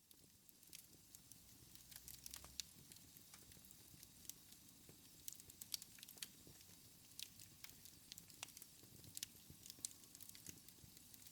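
Wood fire crackling in a fireplace: faint, irregular sharp pops and snaps over a soft hiss.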